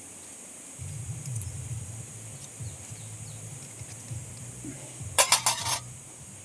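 A quick run of about six sharp clinks about five seconds in, like hard objects knocking together. They sound over a steady high hiss and a faint low hum.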